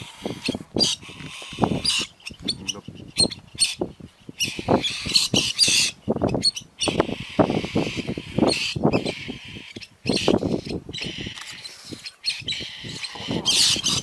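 Small bird giving short, sharp cries over and over: distress calls from a bird caught by a leopard.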